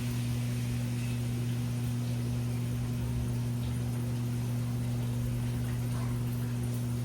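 Washing machine running with a steady low hum and a soft hiss.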